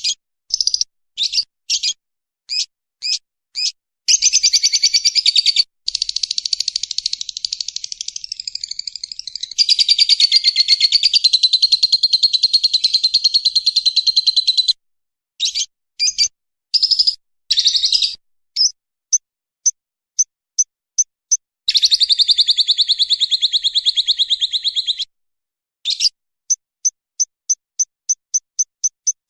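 Lovebird ngekek: short sharp chirps give way to a long, continuous chattering trill of about ten seconds. After it come more chirps, a second trill of about three seconds, and a quick, evenly spaced run of short chirps near the end.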